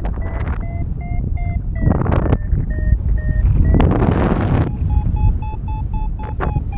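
Paragliding variometer beeping rapidly in short, evenly spaced beeps, about three a second, stepping up in pitch about five seconds in: the climb tone of a strong thermal climb. Wind rushes over the microphone in gusts.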